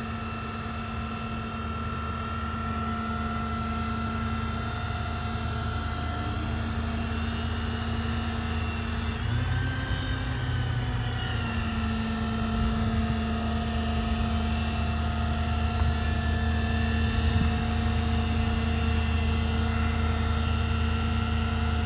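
The Ram 5500 bucket truck's 6.4-litre gasoline Hemi V8 runs steadily on idle-up, with a steady whine over a low hum. The pitch rises briefly and settles about ten seconds in, and the sound grows slowly louder.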